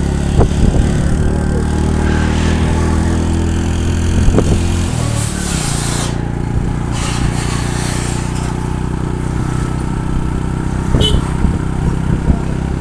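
Motorcycle engine running steadily while riding, its pitch stepping down about five seconds in as it eases off.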